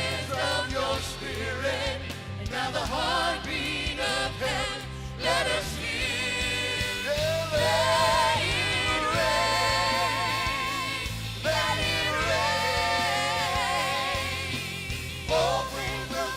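A live church praise band with singers performing a contemporary worship song, with a steady accompaniment underneath. A voice holds long notes with vibrato, twice in the middle stretch.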